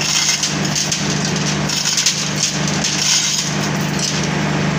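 Industrial machinery running: a steady low hum under a constant hiss, with irregular scraping and clattering surges.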